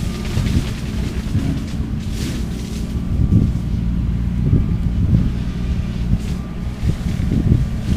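Skid steer engine running steadily under load with its shredder head working through cane. The sound surges and dips irregularly, with a couple of brief hissing flares.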